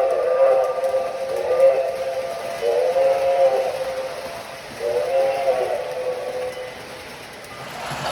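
O gauge model train locomotive's sound system blowing a multi-chime whistle, four blasts with short gaps, each sliding up in pitch as it starts.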